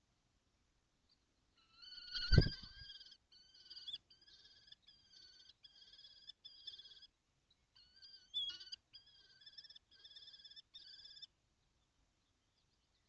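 Kestrels calling: a run of short, level-pitched notes repeated a few times a second, a pause, then a second run. A loud thump comes at the start of each run, the first one the loudest sound here.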